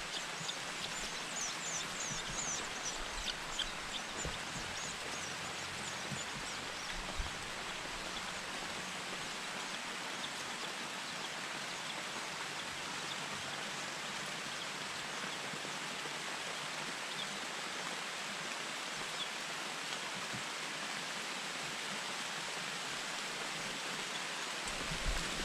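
Steady outdoor hiss with faint, high bird chirps during the first few seconds.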